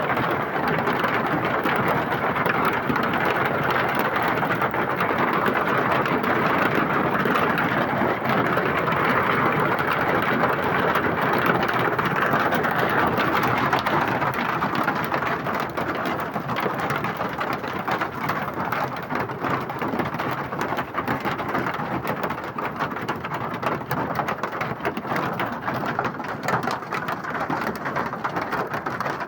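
Hail and rain pelting down hard: a dense steady hiss of falling water with many sharp ticks of hailstones striking, easing slightly about halfway through.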